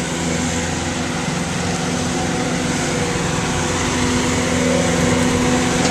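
Bobcat T750 tracked skid steer's diesel engine running steadily, growing gradually louder.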